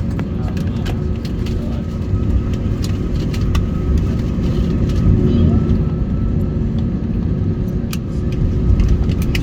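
Steady low vehicle rumble with faint steady tones, scattered short clicks and background voices.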